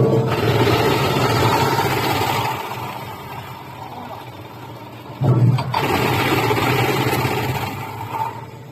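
Fruit and vegetable crushing machine running with a steady hum, rising twice to loud noisy bursts of about three seconds each, at the start and again about five seconds in.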